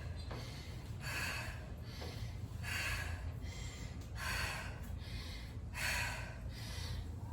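A woman breathing hard from the exertion of pistol squats, one heavy breath about every second and a half, over a steady low hum.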